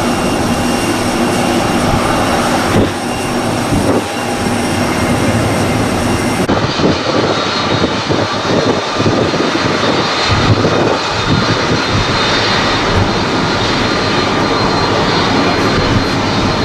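Jet engines of an Airbus A340-300 running with a steady whine over a dense rush of engine noise; about six and a half seconds in, the highest hiss cuts out suddenly while the engine noise carries on.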